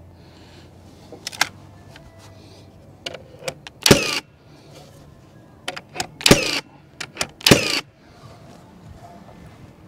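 Cordless drill-driver run in three short bursts, about four, six and seven and a half seconds in, with a few light clicks and knocks before them.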